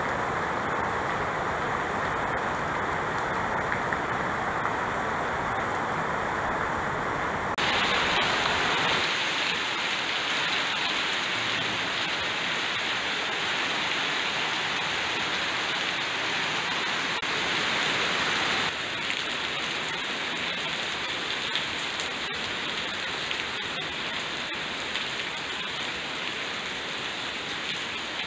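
Heavy rain falling steadily on trees, leaves and ground, a continuous hiss. It turns brighter and a little louder about a quarter of the way in, and eases slightly past the middle.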